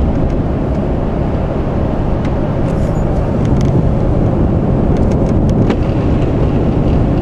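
Car driving on a snow-covered road, heard from inside: a steady low rumble of road and engine noise, with a few faint clicks.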